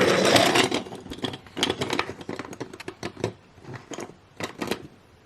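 Irregular light clicks and taps of small plastic toys and pieces being handled, with a rustle in the first second.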